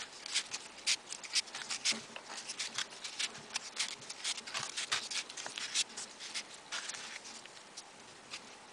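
Folded paper origami pieces being slotted onto the model, making irregular small paper clicks and rustles that die away near the end.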